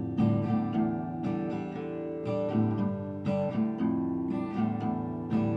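Acoustic guitar strumming chords in a steady rhythm, an instrumental passage between sung lines of the song.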